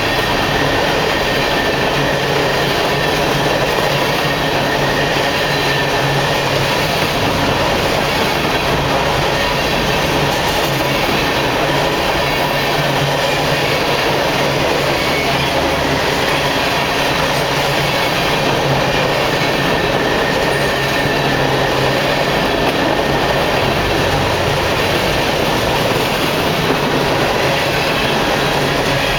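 Freight train of grain hopper cars rolling past, with steady, continuous wheel-on-rail noise.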